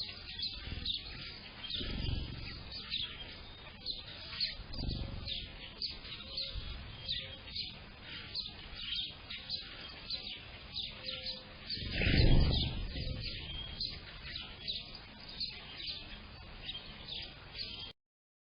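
Yard birds chirping and singing, with many short, rapid chirps overlapping. A low rumble swells up twice early on and more loudly about twelve seconds in, and the sound cuts off abruptly just before the end.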